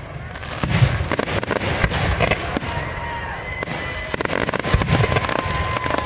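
Aerial fireworks display: a rapid string of bursting shells and crackling stars, with deeper booms about a second in and again near the end. A thin steady tone comes in about halfway.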